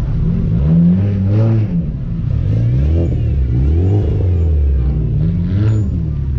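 Car engine revved repeatedly, its pitch climbing and dropping about once a second, loud and continuous.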